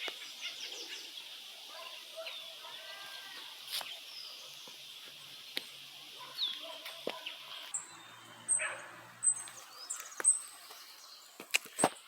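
Forest ambience: birds chirping over a steady high-pitched drone. The drone cuts off abruptly about two-thirds of the way in, and scattered clicks and knocks follow.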